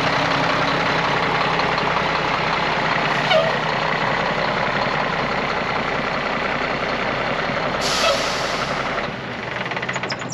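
Heavy diesel truck engine running steadily, with short hisses of air about three seconds in and again near eight seconds, typical of an air-brake system; the running sound drops off about nine seconds in.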